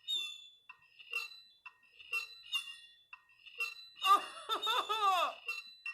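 Knife scraping on a plate: repeated short, high-pitched squeals, with a louder, longer squealing stretch about four seconds in.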